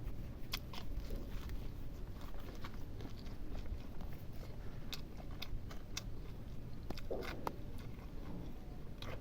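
A person chewing and eating food close to the microphone, with scattered small crunches and mouth clicks.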